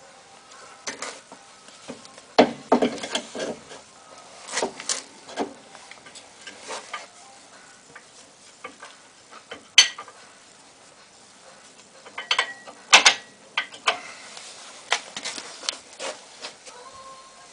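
Metal tools and brake parts clinking, knocking and scraping as they are handled, in irregular strokes with sharper knocks about ten and thirteen seconds in.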